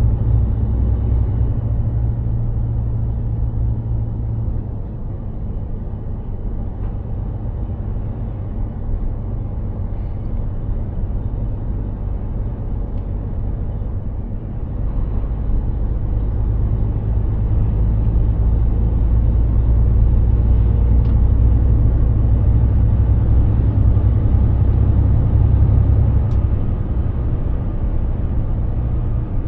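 Mercedes-Benz Actros 2763 truck driving, its engine and road noise making a low, steady drone that eases off about four seconds in and grows louder again about halfway through.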